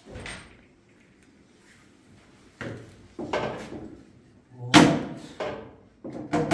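A series of sharp household knocks and bangs, like a door or drawer being shut, the loudest about five seconds in.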